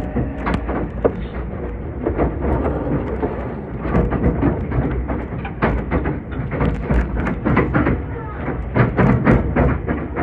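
Meitetsu 2000 series train running, heard from inside the car: a steady low rumble with irregular clicks and knocks of wheels on the rails.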